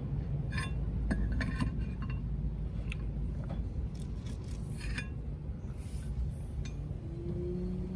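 Scattered light metallic clinks and taps, like tools and small parts being handled during mechanical work, over a low steady rumble. A steady hum starts near the end.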